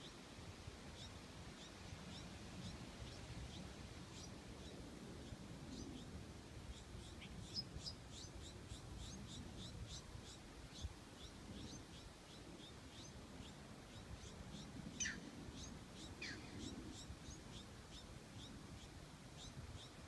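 Faint outdoor ambience of birds chirping: short high chirps repeated over and over, with two downward-sliding calls a little past the middle, over a low rumble.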